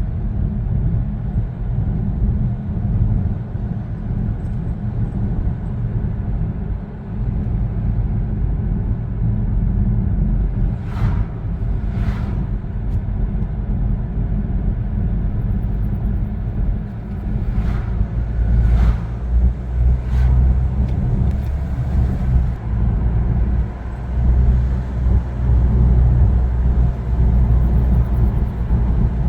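Steady low rumble of a car driving along a road, with several short whooshes in the middle.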